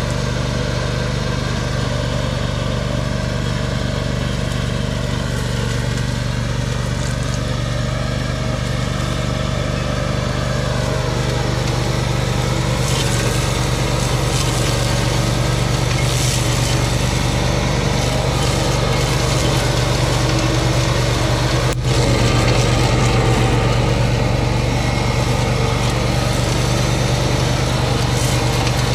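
Tractor engine running steadily under load with the flail mower working, a strong low hum throughout that gets a little louder partway through. One sharp knock about three-quarters of the way in.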